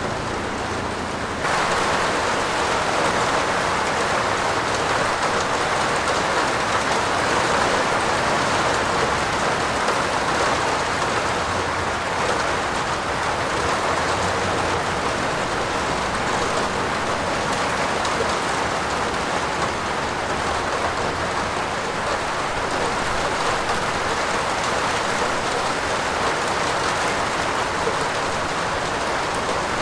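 Heavy rain falling on a roof, a dense steady hiss. About a second and a half in, it switches suddenly to a louder, brighter hiss, which then holds steady.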